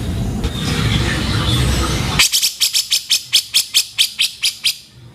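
Grey-cheeked bulbul (cucak jenggot) calling. Softer calls over background noise give way, a little past two seconds in, to a fast run of rough, sharp notes, about five a second, that fade out near the end.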